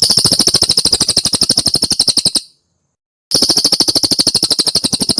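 Cililin bird song: a rapid, very even trill of about seventeen clipped notes a second, high-pitched and lasting about two and a half seconds, then after a brief pause of about a second a second identical trill.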